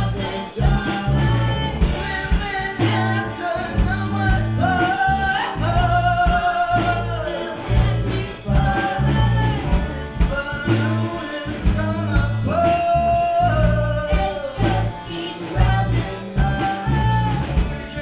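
Live gypsy rock band playing a song: a sung lead vocal line over a steady drum beat and bass.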